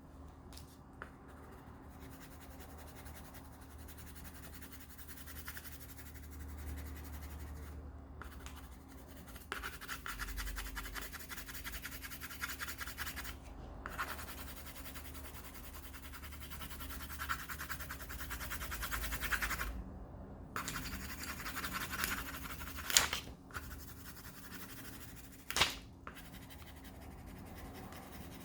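Colored pencil shading rapidly back and forth on paper, filling in a broad area in several bursts with brief pauses. Two sharp taps sound near the end.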